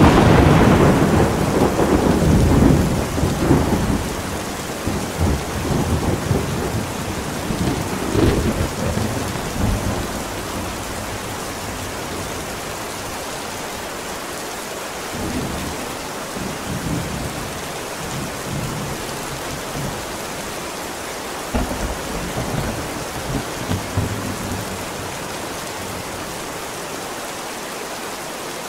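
Steady heavy rain with rolling thunder. A loud thunderclap rumbles off over the first few seconds, another rumble comes about eight seconds in, and fainter distant rumbles follow later.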